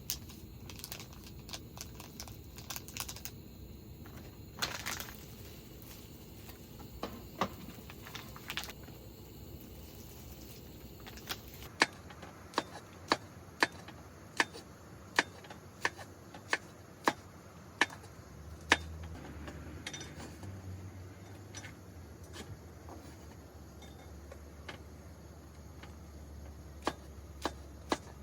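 A run of sharp taps or clicks, about two a second for some seven seconds, with scattered clicks before and a few more near the end, over a low background rumble.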